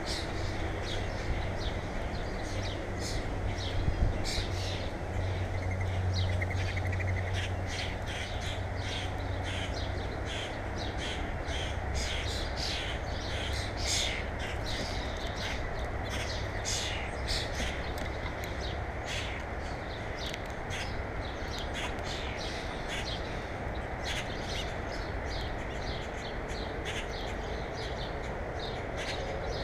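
Birds calling at a feeder: a long run of short, sharp calls, one after another, over a steady low hum.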